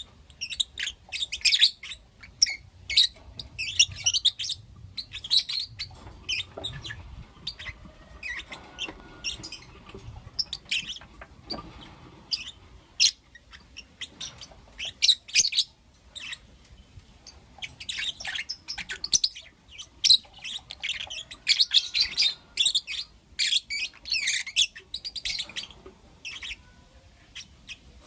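Pet lovebirds chirping and calling in quick, irregular runs of short high-pitched chirps, with a couple of sparser stretches.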